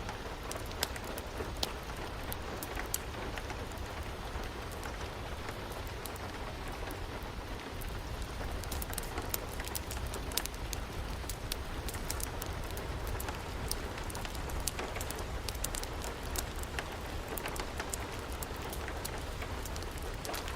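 Steady rain with scattered sharp crackles and pops of a wood fire, the crackles coming more often from about eight seconds in.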